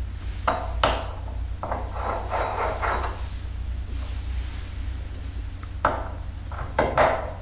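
Metal tap parts and tools being handled: a few separate clicks and knocks, a short stretch of rubbing and scraping about two seconds in, and two more knocks near the end.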